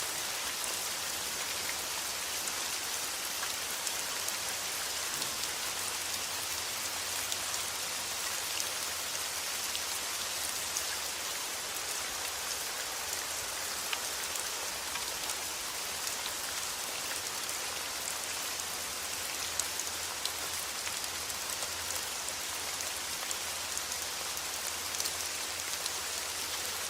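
Steady rain falling: a dense, even hiss with many small scattered drop ticks.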